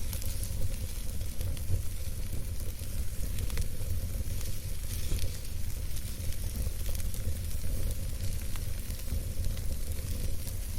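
Wood campfire burning, with a steady hiss and scattered soft crackles and small pops, over a steady low rumble.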